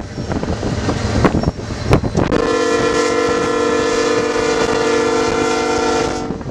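Diesel locomotive horn, the lead GE ES44C4 of a freight train, sounding one long, steady chord-like blast of about four seconds that starts about two seconds in. Before the blast, wind buffets the microphone.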